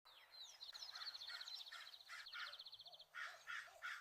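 Faint wild birdsong: a rapid high trill lasting about two and a half seconds, over a string of short harsh calls repeated about three times a second.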